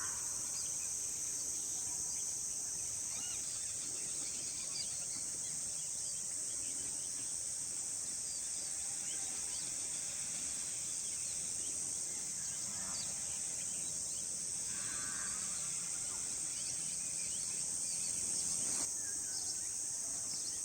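Steady high-pitched insect drone, with scattered short bird chirps over it and a brief ringing bird call about fifteen seconds in.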